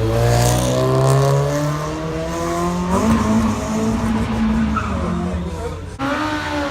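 Car engine accelerating hard: its pitch climbs steadily for about three seconds, changes abruptly as the gear shifts, then holds steadier. An abrupt break comes near the end.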